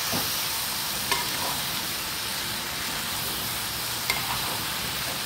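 Cauliflower, chana dal and tomato sizzling in a pan as they are stirred with a spatula: a steady frying hiss, with light clinks of the spatula against the pan about a second in and again about four seconds in.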